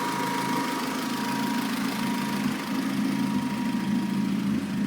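Supercharged K24/K20-swapped 1991 Honda CRX engine idling steadily, run to warm it after sitting unused for a while.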